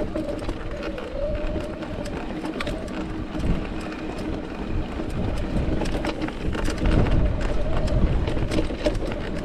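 Mountain bike rolling over rocky trail: tyres crunching on rock, with frequent clicks and rattles from the bike and wind rumbling on the microphone.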